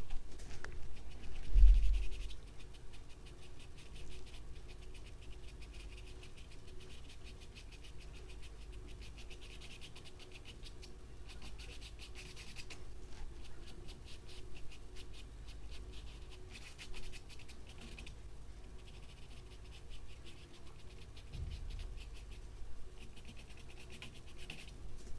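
A paintbrush scratching across canvas in several stretches of quick, short strokes as the fine lines of a fisherman's net are painted in acrylic. A dull low thump about two seconds in.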